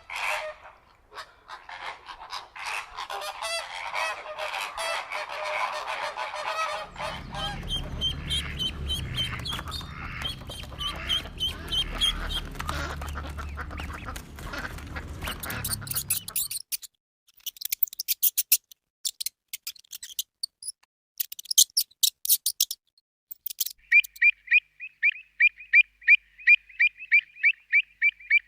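Geese honking for the first half, with a low rumble under the calls partway through. Then come sharp high clicks, and near the end a fast, even run of repeated high calls, about four a second.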